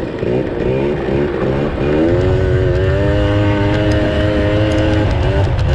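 Yamaha dirt bike engine accelerating in several short rising revs, then holding a steady pitch for a couple of seconds before easing off near the end.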